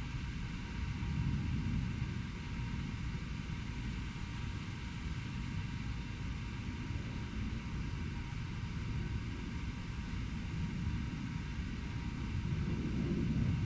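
Steady low rumble of distant urban road traffic with a faint hiss above it, swelling about a second in and again near the end as vehicles pass.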